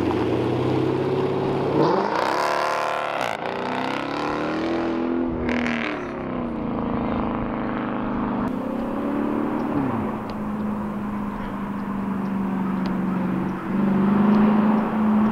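Straight-piped car engine revved hard about two seconds in, blipped again a few seconds later, then dropping back to a steady idle, with the revs and loudness climbing again near the end.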